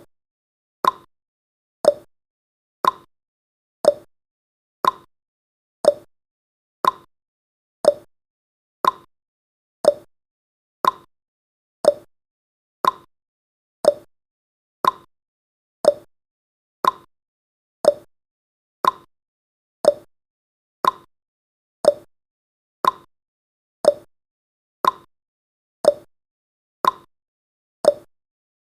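Countdown timer's clock tick sound effect: a short, sharp tick once a second, alternating slightly higher and lower in pitch like a tick-tock.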